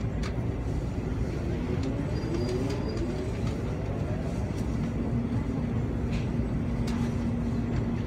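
Steady rumble and hum inside an N700A Shinkansen car, with an electric whine rising in pitch about two seconds in, then a steady low tone from about halfway, and a few light clicks.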